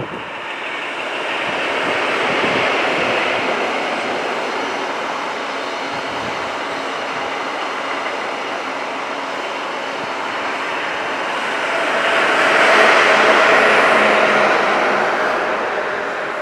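East Midlands Trains diesel passenger train passing at speed: a steady rush of wheels on rail that swells as the front goes by, holds, then swells louder near the end as the rear passes, with a faint steady engine hum, before fading away.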